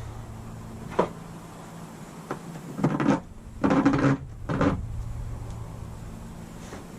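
Hands working wiring and plastic parts into a ceiling vent fan housing: a sharp click about a second in, then a run of knocks and rustles from about three to five seconds in, over a steady low hum.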